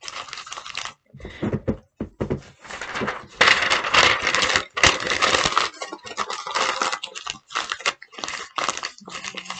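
Sheets of paper being crumpled into a ball by hand, an irregular crackling in bursts that is loudest and densest in the middle.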